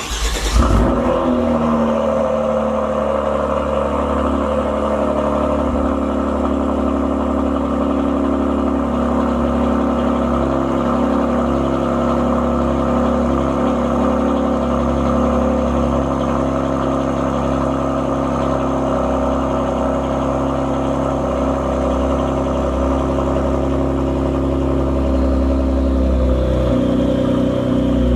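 Kia Stinger 3.3T's twin-turbo V6 exhaust on a cold start: it fires with a short flare, then settles into a steady cold idle.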